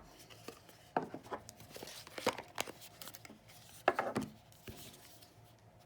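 A cardboard card box being handled: several light taps and knocks, the loudest about four seconds in, with soft rustling of card and paper.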